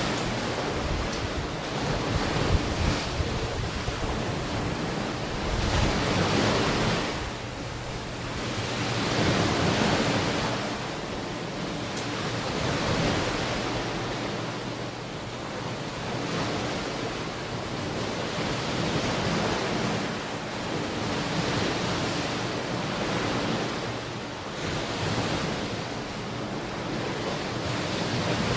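Ocean surf washing onto a beach, swelling and fading every few seconds as the waves come in. Wind rumbles on the microphone during the first few seconds.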